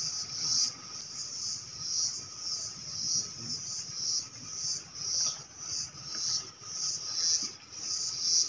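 Shrill insect chorus swelling and fading in a steady rhythm, about once a second.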